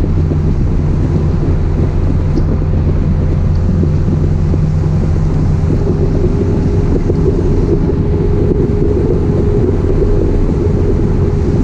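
1966 Triumph Spitfire's rebuilt 1147 cc four-cylinder engine and exhaust running at a steady cruise, heard from the open cockpit with wind buffeting the microphone. The engine note changes a little about six seconds in.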